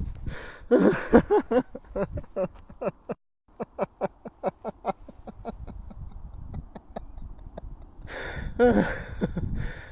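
A man doing a laughter yoga 'tractor laugh', laughing in short, rhythmic, chugging pulses like a tractor engine turning over and running. The run of pulses comes several a second in the middle. Fuller voiced laughter comes at the start and again near the end.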